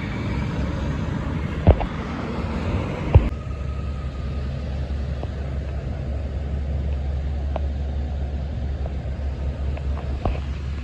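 Road vehicle noise: a broad rumble of tyres and engines with two sharp knocks in the first few seconds. About three seconds in it switches abruptly to a steadier, deeper rumble.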